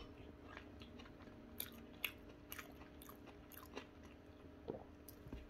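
Faint chewing of a mouthful of loaded fries, with soft scattered mouth clicks and smacks; the fries are not very crispy. A faint steady hum sits underneath.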